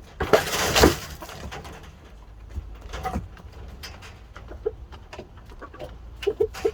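Shamo chickens giving short, low clucks, several in a quick cluster near the end, with a loud rustling burst in the first second.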